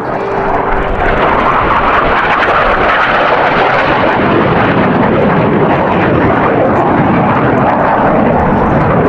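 Blue Angels jet aircraft flying past low, a loud, steady rush of jet noise that swells over the first second and then holds.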